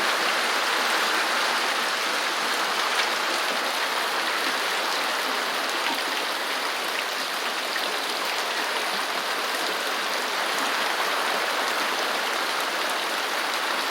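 Steady rain falling on a corrugated zinc roof, an even hiss with faint scattered drop ticks.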